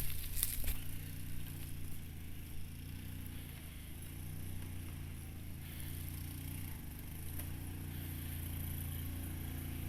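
Honda Cub's small single-cylinder four-stroke engine running steadily at low revs, its pitch wavering slightly. A few crackling scrapes come in the first second.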